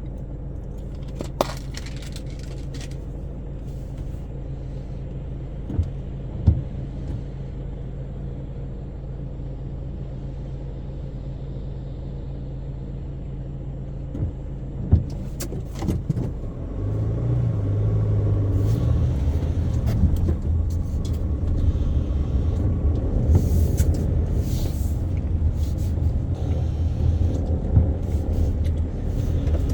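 Car engine idling with a steady low hum and a few sharp clicks. A little over halfway through, the engine and road noise grow louder as the car moves off and drives on.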